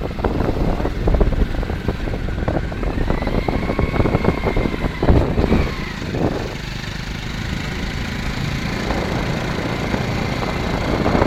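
Motor vehicle engine running on the road, with road and wind noise and scattered knocks; a faint high whine rises and falls a few seconds in.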